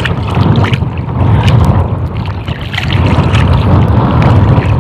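Strong wind buffeting the microphone in a steady low rumble, with scattered small splashes and knocks of water.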